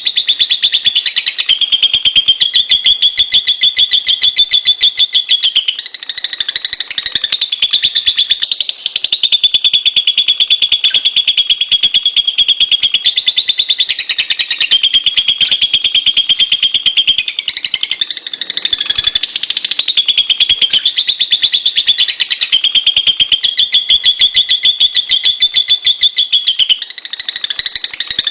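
Lovebirds chattering: a loud, unbroken stream of very rapid, shrill high-pitched notes, shifting its pattern every few seconds.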